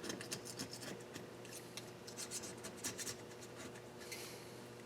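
Faint, irregular scraping and rubbing with light clicks from hands working on metal engine parts during cylinder head disassembly and cleaning.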